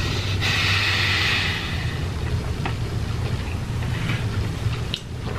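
Close-miked chewing of pizza, with small mouth clicks and ticks, over a steady low hum. A loud hiss comes in about half a second in and lasts about a second and a half.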